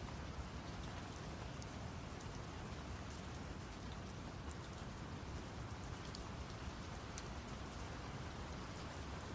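Steady rain with scattered drop ticks, over a low, even rumble of brown noise.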